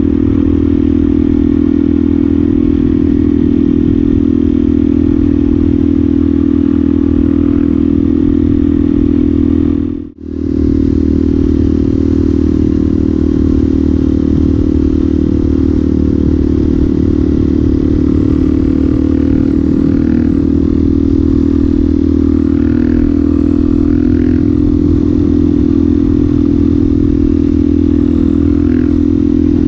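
Suzuki DR-Z400SM's single-cylinder four-stroke engine running steadily at a near-constant pitch through a Yoshimura exhaust. The sound cuts out for a moment about ten seconds in.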